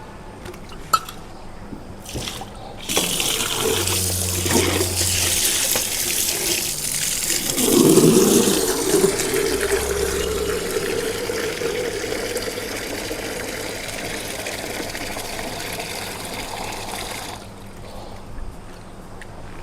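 Water pouring and splashing, used to wash dung off before milking. It starts about three seconds in, is loudest a few seconds later, and stops shortly before the end.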